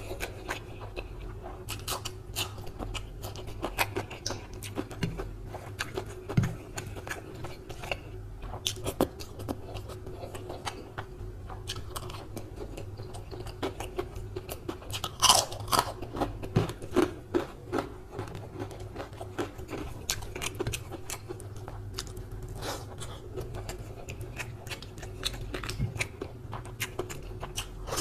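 Close-up, wet chewing and biting of a hand-eaten meal of rice, curry and fried pakora, with irregular crisp crunches and a louder burst of crunching about halfway through. A faint steady hum runs underneath.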